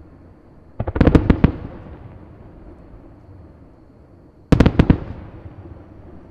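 Aerial fireworks shells bursting. A quick cluster of four or five sharp bangs comes about a second in, and another cluster of bangs just before the five-second mark, each trailing off in a long fading echo.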